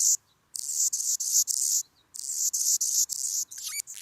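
Insect chirping: high-pitched pulsed trills, several pulses a second, in bouts about a second and a half long with short pauses between them. A few short sliding bird chirps come in near the end.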